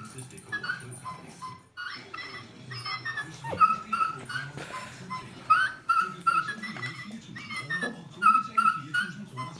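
Husky puppy whimpering and yipping in short, high, repeated cries, mixed with the sounds and voice of an electronic children's toy.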